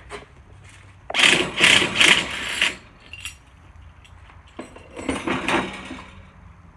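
Impact driver running in two short rattling bursts, the first about a second in and the second near five seconds.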